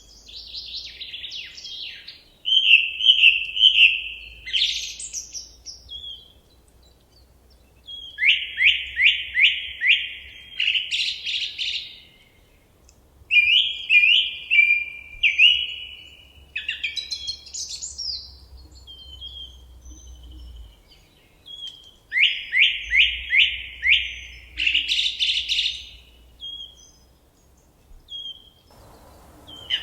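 A songbird sings the same short song over and over: each phrase is a quick run of falling notes that ends in a higher flourish, with pauses of a second or more between phrases. Faint single calls come in the gaps.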